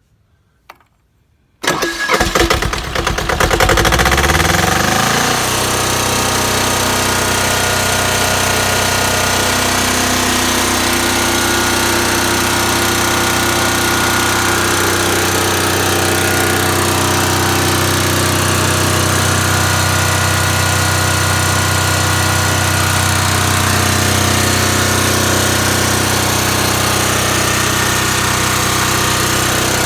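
Voltmaster 13000 diesel generator's two-cylinder Lombardini diesel engine cranked by its electric starter a couple of seconds in, catching and revving up over about three seconds, then running steadily and loud.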